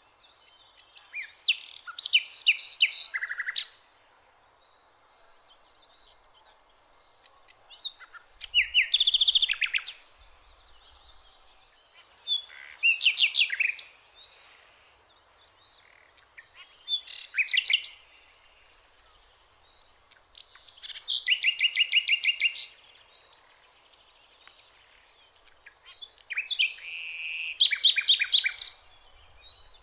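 A songbird singing six short phrases, each a couple of seconds of rapid trilled notes, about four seconds apart.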